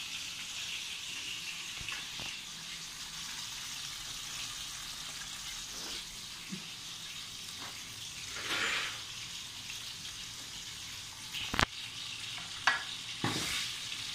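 Peppers frying in a pan, a steady sizzle, with a few sharp knocks near the end.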